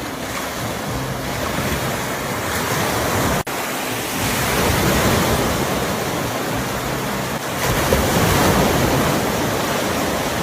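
Ocean surf: waves breaking and washing up the beach in a steady rush of noise that swells about four seconds in and again near the end. The sound cuts out for an instant about three and a half seconds in.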